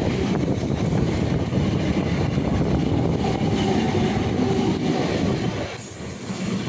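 Electric multiple-unit local train passing close by at speed: a steady rumble and rattle of wheels on the rails, with a brief dip in loudness near the end.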